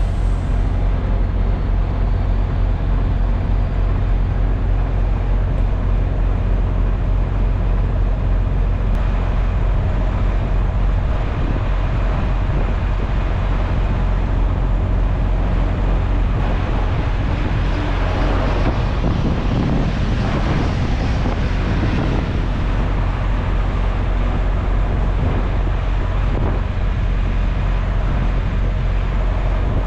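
Diesel engine of a semi truck running steadily, with a constant low hum and road noise.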